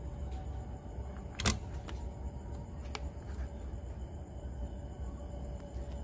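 A few light clicks or taps, the sharpest about a second and a half in, over a low steady hum.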